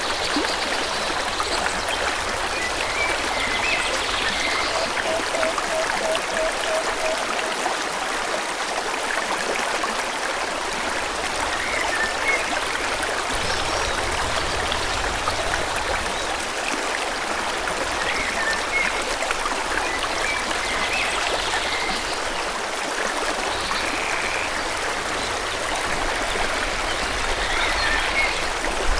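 Forest stream flowing steadily, with scattered short bird chirps over it and a brief run of about eight quick, repeated low notes about five seconds in.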